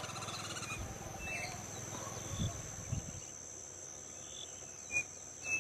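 Insects trilling steadily on one high note, with a few short bird chirps over it, the last two near the end.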